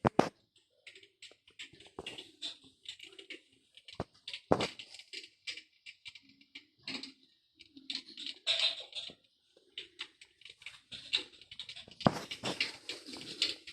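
Irregular crackling and clicking with patches of hiss, like burning logs, from an electric fireplace. A few sharper pops stand out, about four and a half seconds in and near the end.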